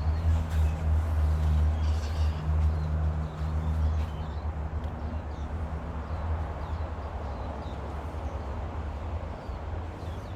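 Low, steady rumble of a vehicle engine, louder for the first few seconds and then a little quieter. Faint, scattered parrot chirps sound over it.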